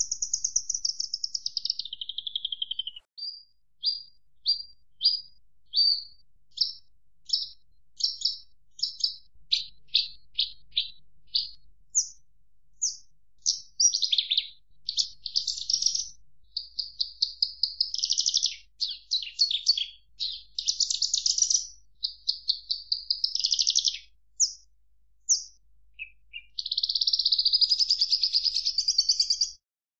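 Javan bush lark (branjangan) singing a long, varied song of high chirps. It opens with a falling note, runs into a string of short separate notes, then quickens into dense trills, ending in a long, fast trill.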